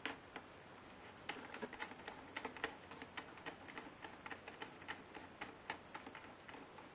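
A sharp click, then from about a second in a rapid, irregular run of small clicks and taps, about five a second, from the Lenovo Y570 laptop being handled while it is taken apart.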